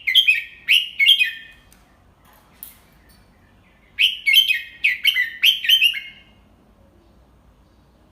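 Red-whiskered bulbul singing two short phrases of quick whistled notes, the second starting about four seconds after the first: a tutor bird's "double 3" song, the pattern young bulbuls are taught to copy.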